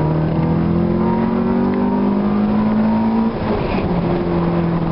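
Honda D15B 1.5-litre four-cylinder engine and exhaust under acceleration, heard from inside the car: the engine note climbs steadily, breaks off briefly about three seconds in for an upshift, and picks up again at a lower pitch.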